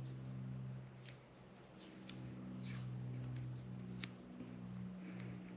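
Faint handling of a bundle of wires and a roll of electrical tape: light rustles and a sharp click about four seconds in, over a steady low hum.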